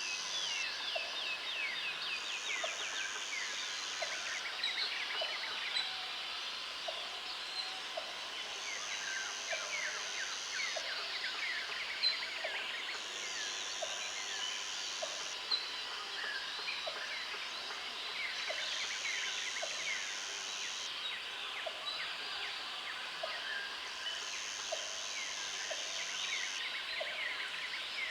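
Countryside ambience of many birds chirping and singing in quick downward-sweeping notes, with a high-pitched buzzing trill that comes and goes every five or six seconds and a short low note repeating about once a second.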